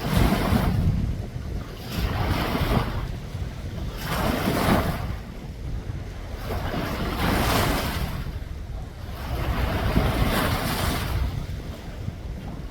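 Sea waves washing in, swelling and falling every two to three seconds, with wind buffeting the microphone.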